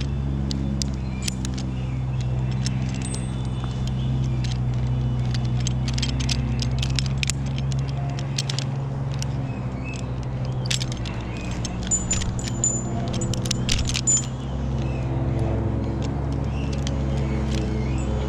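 Metal climbing and rigging hardware clinking and jingling in irregular bursts, over the steady drone of an engine running.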